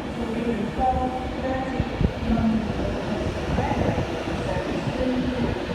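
Class 390 Pendolino electric train at the station: a steady low rumble with some humming tones, and a brief knock about two seconds in.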